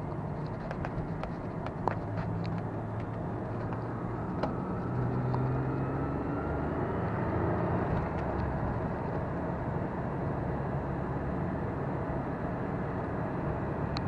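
Lotus Carlton's 3.6-litre twin-turbo straight-six engine running under way with tyre and road noise, heard from inside the cabin. About five seconds in, the engine note rises as the car accelerates, then settles to a steady drone.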